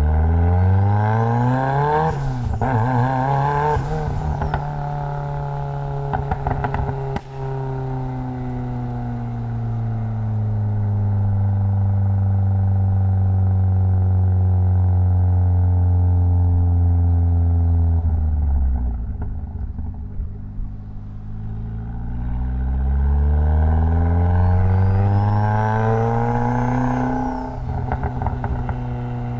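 Mitsubishi Lancer Evolution X's turbocharged 2.0-litre four-cylinder engine accelerating through the gears. The revs climb and drop sharply at a shift about two seconds in, then climb again. They settle into a long, steady drone that slowly falls, dip about two-thirds of the way through, and climb once more before dropping near the end. A faint high whistle rises along with the climbs.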